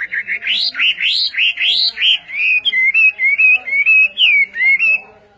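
Hwamei singing loudly: a run of rising whistled notes, about three a second, then a quicker warbling phrase that stops about five seconds in.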